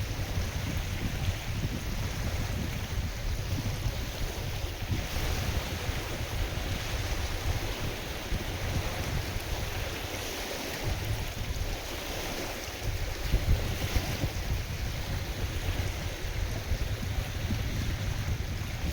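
Wind gusting on the microphone, a rumble that rises and falls, over the steady wash of waves on a lake.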